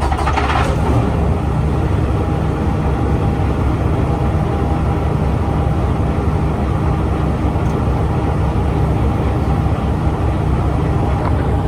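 Heavy truck's diesel engine running steadily at a low hum, with a brief clatter in the first second.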